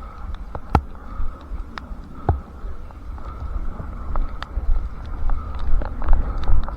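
A runner's footsteps on wet pavement, a regular beat of about two steps a second, with wind rumbling on the head-mounted microphone and scattered sharp ticks.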